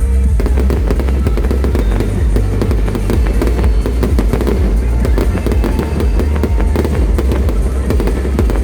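Fireworks going off in a rapid, dense crackle of many small bangs, over loud music with heavy bass.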